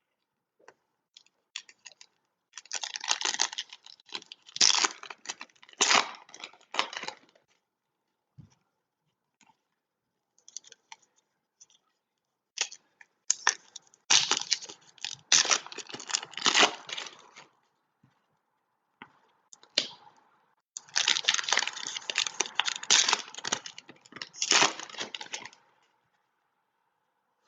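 Foil wrappers of trading-card packs crinkling and tearing as packs are opened by hand, in three separate bursts with small crackles between.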